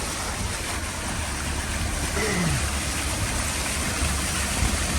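Floodwater torrent rushing: a steady, even roar of fast-flowing water, with a low rumble underneath.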